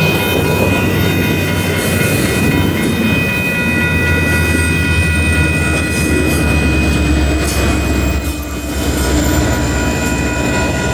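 Union Pacific double-stack container freight train passing close by: a steady loud rumble and rattle of the cars, with a high, steady squeal from the wheels. A deeper diesel drone swells from about four seconds in as a locomotive in the consist goes past.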